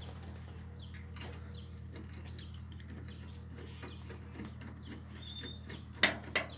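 Light clicks and knocks of hand work on a small engine, with two sharper knocks near the end, over a steady low hum. A short bird chirp sounds about five seconds in.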